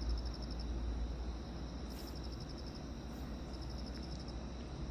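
Crickets chirping in short high pulsed trills that come and go, over a low steady rumble.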